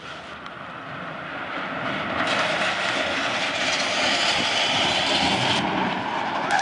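Kayak hull sliding down the slide: a rushing hiss that grows steadily louder over several seconds, with a brighter edge in the middle.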